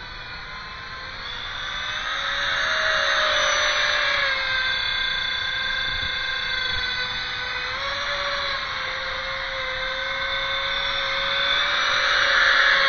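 Electric ducted fan of a 3D-printed thrust-vectoring drone whining with a rushing airflow hiss. The pitch wavers slightly, and it grows louder about two seconds in and again near the end as the throttle changes.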